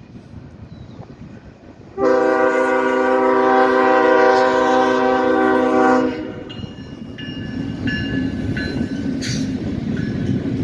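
Freight locomotive horn sounding one long blast of about four seconds, a chord of several steady notes, over the low rumble of the train. After the horn the train keeps rolling with a steady rumble that grows louder.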